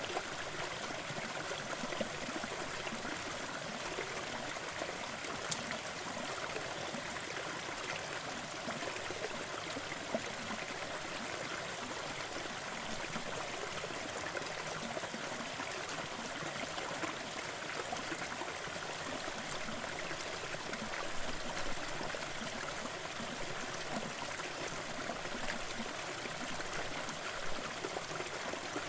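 Waterfall: a steady, unbroken hiss of falling and splashing water, with little deep rumble.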